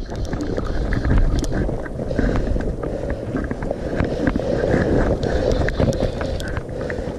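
River water rushing steadily, with wind buffeting the microphone and scattered sharp ticks throughout.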